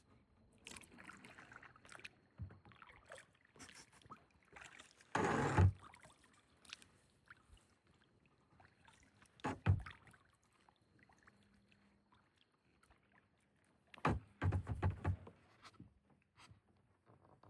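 A kayak being handled or paddled on the water: irregular knocks of the paddle or gear against the hull and splashing. The louder splashes or knocks come about five seconds in, near ten seconds, and as a cluster around fourteen to fifteen seconds.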